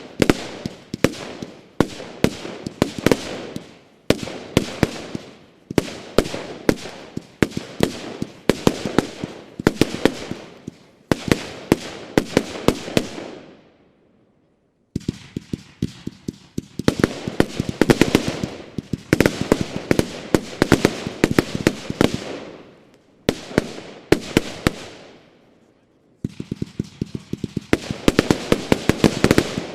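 Pyrocentury Gold Blauer Himmel 126-shot 25 mm compound firework cake firing: dense volleys of shots and bursts in runs of about two seconds, each run trailing off. There are brief pauses about halfway through and again near the end.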